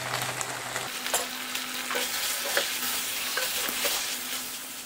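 Pressure-cooked beef pieces frying in coconut oil in a pan with a steady sizzle, while a wooden spatula stirs them, scraping and tapping against the pan from about a second in.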